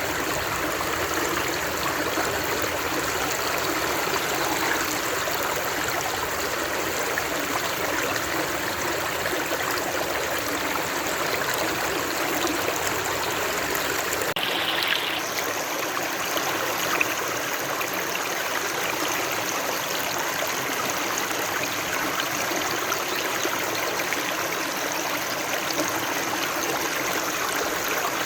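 Stream water running steadily, an even rushing and trickling, with a short brighter hiss about halfway through.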